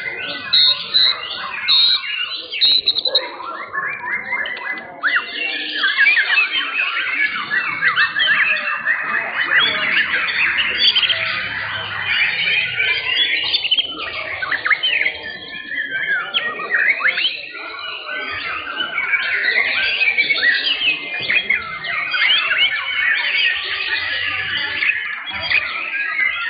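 Many caged young white-rumped shamas (murai batu) singing at once in competition: a dense, unbroken chorus of rapid whistles, trills and chirps.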